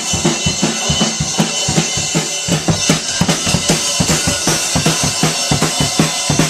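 Drum kit played at a fast, steady pace, with hits coming several times a second.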